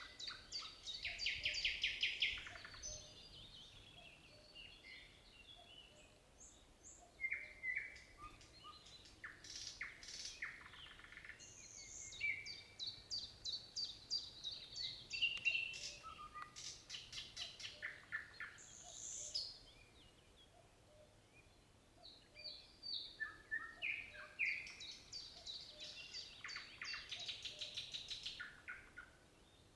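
Nightingale singing: several phrases of rapid repeated notes and fast trills, with short pauses between them.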